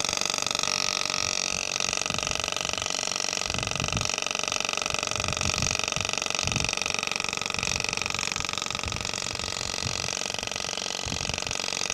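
Small 9 V battery-powered DC motor spinning a fan inside a homemade bottle vacuum cleaner, running steadily with a high, even whine and buzz. A few dull low knocks sound over it.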